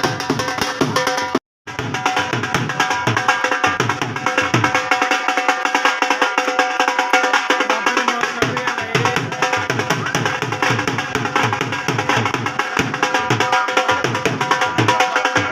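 Dhol drumming in a fast, even rhythm with steady held tones of melody over it; the sound cuts out for a moment about a second and a half in.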